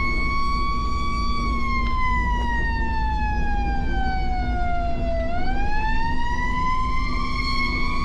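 Fire engine siren running a slow wail while responding to an emergency call: the pitch holds, falls steadily for about four seconds, then sweeps back up about five seconds in and holds again. Under it, a steady rumble of engine and road noise.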